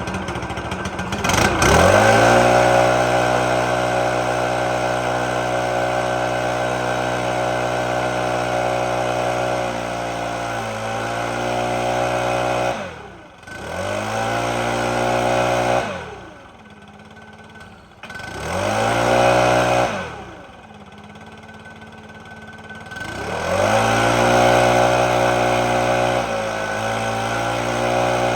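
Stihl BR600 backpack blower's 4-MIX engine revved from idle to full throttle and held there for about eleven seconds, then let back to idle and blipped up three more times. This is a throttle-response test after the low-speed carburetor adjustment.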